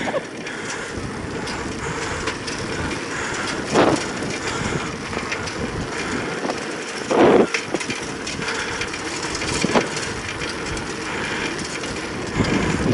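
Steady rumbling noise of a moving vehicle, with brief louder bursts about four and seven seconds in and a smaller one near ten seconds.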